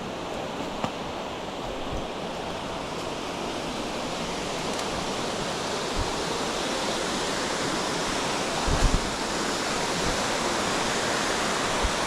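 Waterfall on a mountain brook rushing steadily, growing slightly louder over the stretch. A few brief gusts of wind hit the microphone, the strongest about nine seconds in.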